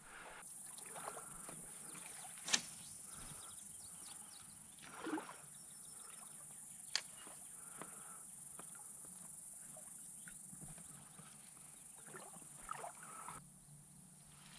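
Steady high-pitched insect drone at the creek that cuts off suddenly near the end, with a few sharp clicks, two of them more distinct, and a soft rustle in between.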